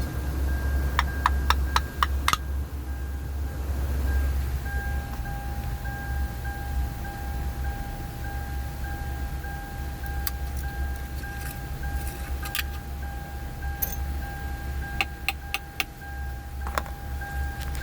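Scattered clicks and light rattles of small hard objects being handled, like keys jingling, in clusters near the start, in the middle and near the end. Under them run a steady low hum and a thin, steady high electronic tone.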